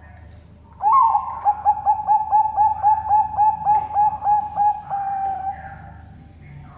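Zebra dove (Bangkok perkutut) cooing its full song: an opening note, then a quick even run of about fifteen short coos at roughly four a second, ending on a longer held note.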